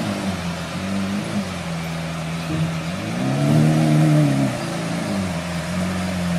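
Lamborghini Aventador Roadster's V12 engine running at a low idle, with one throttle blip about three seconds in that rises and falls back.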